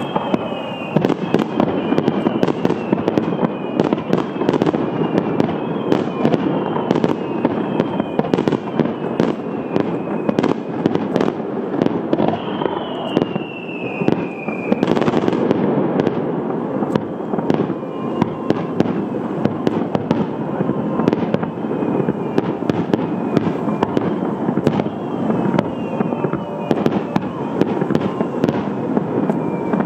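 Fireworks display: shells going off in a rapid, dense run of bangs and crackling. High whistles falling in pitch recur every second or two.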